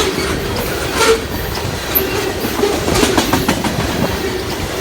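Freight train of oil tank cars rolling past, steel wheels clacking over the rail joints in an irregular series of knocks over a continuous rumble, with a steady ringing tone; the rails are flexing visibly up and down under the passing cars.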